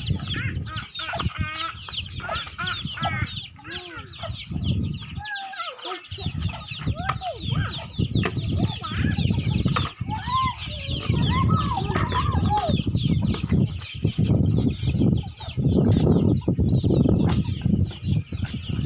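A flock of chickens clucking and calling, with many short high chirps throughout.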